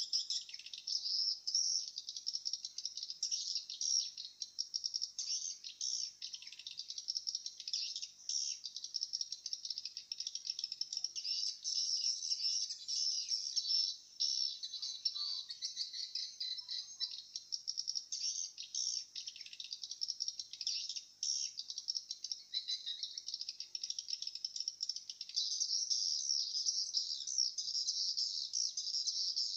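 Swiftlets twittering: a dense, continuous chatter of rapid high chirps and rattling trills, a little fuller near the end.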